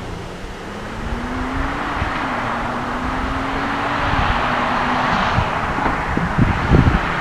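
The Nissan Juke-R 2.0's twin-turbo V6 accelerating hard, heard from inside the cabin: the engine note climbs, drops at upshifts about two and four seconds in, then climbs again, with rising wind and tyre noise. Near the end the engine note falls away and a few sharp knocks come through.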